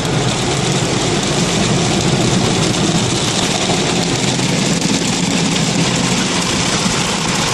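Automatic car wash working over the car, heard from inside the closed cabin: a loud, steady rush of water spray and machinery against the body and glass.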